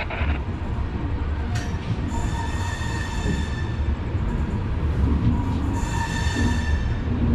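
Passenger train running, a steady low rumble of the coach on the rails, with two spells of high-pitched wheel squeal, about two seconds in and again near six seconds, and a single knock just before the first.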